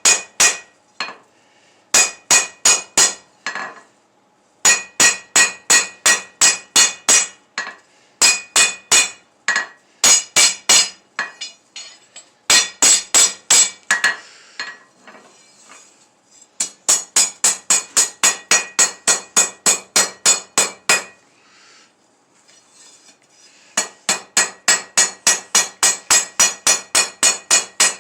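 Hand hammer striking steel on an anvil in quick runs of about three or four blows a second, each blow ringing, with short pauses between the runs.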